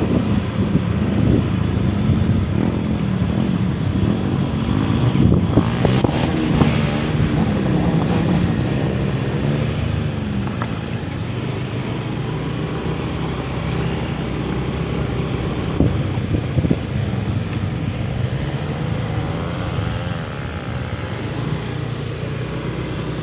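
Motor vehicle engine running with road and wind noise, its pitch drifting up and down as it speeds up and slows.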